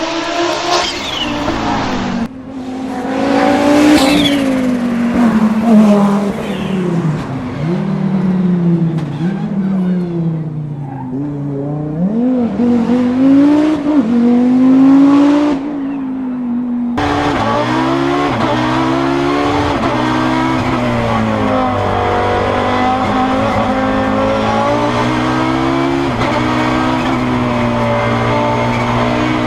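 Audi Sport Quattro S1 E2's turbocharged inline five-cylinder engine at full race pace, its note climbing and dropping sharply again and again through gear changes. From about two-thirds of the way through, the engine note holds steadier.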